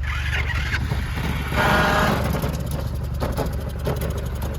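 Small gasoline engine of an engine-swapped Power Wheels ride-on running, with a louder rise about two seconds in and a rapid even popping later on.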